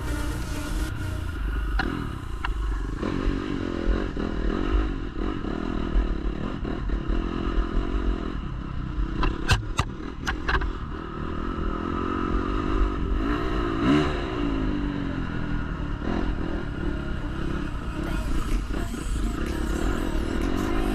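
Dirt bike engine running on a trail ride, its pitch rising and falling with the throttle, along with clattering and scraping from the ride. About halfway through there is a short cluster of sharp knocks.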